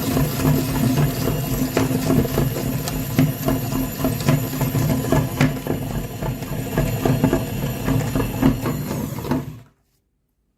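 A small motor running steadily with a rattle of quick clicks, cutting off suddenly near the end.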